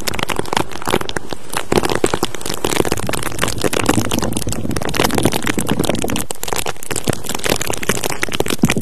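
Dense, irregular crackling and crinkling that runs without a break, with sharper cracks here and there. These are ASMR trigger sounds for an ear-cleaning, 'sucking out the bad energy' roleplay.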